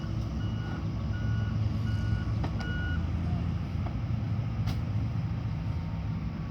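Mack Granite garbage truck's backup alarm beeping about once every 0.7 s, stopping about three seconds in, over the steady rumble of the truck's diesel engine. A few sharp knocks sound in the second half.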